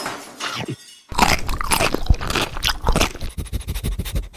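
Crunchy chewing: a quick run of crisp, loud crunches, starting about a second in.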